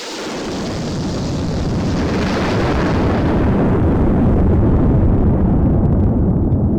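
Airliner crash and explosion, a deep rumbling blast that builds louder over the first few seconds. Its hiss fades about halfway through while the low rumble carries on.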